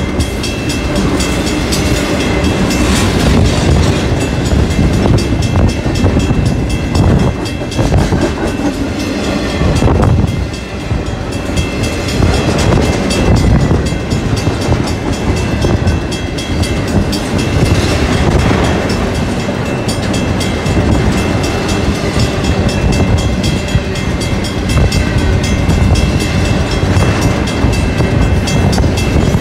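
Double-stack intermodal container cars of a Union Pacific freight train rolling past close by: a loud, steady rumble with the steel wheels clattering over the rails.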